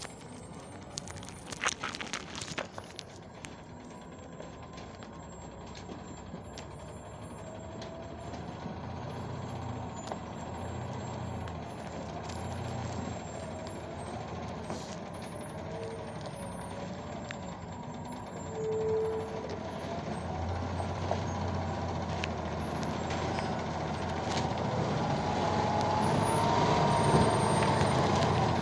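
Hino truck running, its engine rumble and a wavering whine growing steadily louder. A few sharp knocks come in the first seconds, and two short tones come later on.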